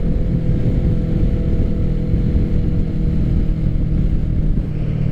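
Kawasaki Ninja 650's parallel-twin engine running at a steady cruise through an M4 full exhaust system, its note holding an even pitch.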